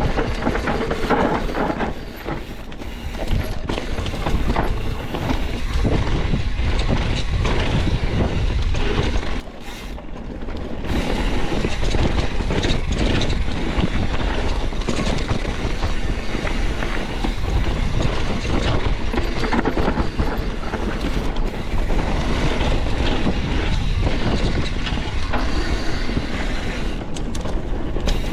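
Wind buffeting the microphone and skis scraping over snow on a fast run: a steady rumbling rush with a rough clatter. It eases briefly about two seconds in and again around ten seconds.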